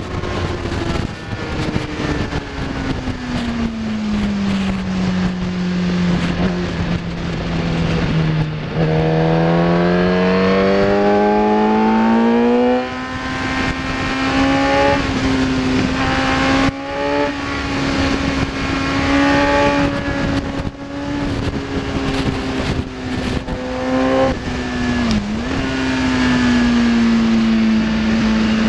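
Kawasaki ZX-10R inline-four engine on a track lap. Its pitch falls for several seconds as the bike slows, then climbs steeply under hard acceleration to a brief break at a gear change. Through the rest it holds fairly steady with a few short drops, over constant wind rush.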